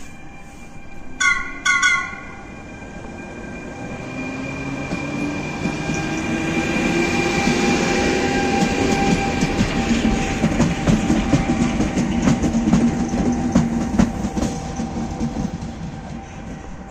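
Two short horn blasts a little over a second in, then a Trenitalia train of an E464 electric locomotive, a D245 diesel shunter and a second E464 rolling past. The wheels click over rail joints, and the sound builds to its loudest in the middle and fades near the end.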